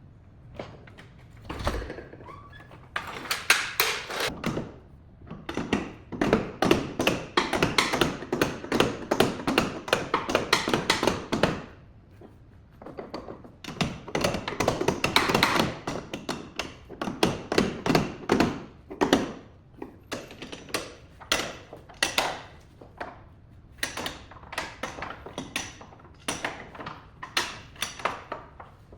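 Rapid tapping and knocking, in runs of several seconds broken by short pauses, with a small-room echo.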